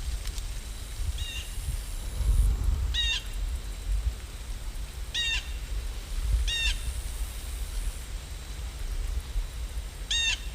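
A bird calling five times, short harsh calls a second or several apart, over a steady low rumble.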